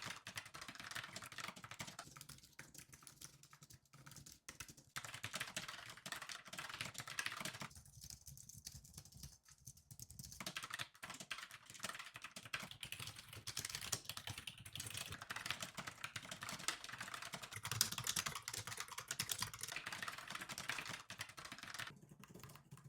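Typing on computer keyboards: runs of fast key clicks, with a pause of about two seconds some eight seconds in. The keyboards are set side by side to compare how loud each one types.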